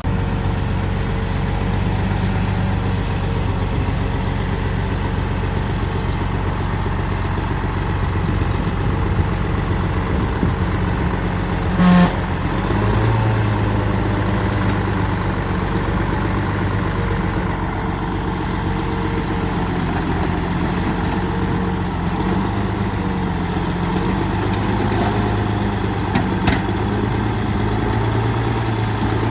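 Heavy diesel engine of construction machinery running steadily at a low, even speed, with one sharp clank about twelve seconds in and a fainter knock near the end.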